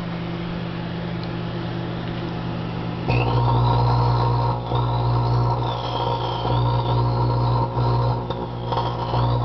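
GE microwave oven running with a steady electric hum, which steps up to a louder buzz about three seconds in. A thin, wavering high whine rides over the buzz, which dips briefly a few times.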